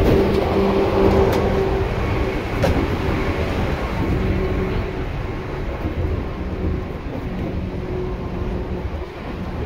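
Onboard running sound of a Seibu 2000 series electric train: steady motor and wheel noise with a low, even hum, gradually growing quieter.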